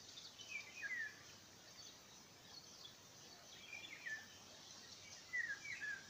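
A songbird singing three short phrases of quick falling notes, about every two seconds, over faint steady outdoor background noise.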